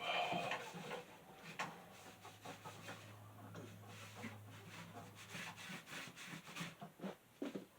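Rubbing with scattered light clicks and knocks as a box fan's parts are handled, a little louder at the very start.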